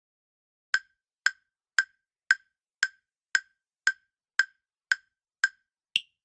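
Countdown timer tick sound effect: eleven sharp wood-block-like ticks, about two a second, the last one higher in pitch.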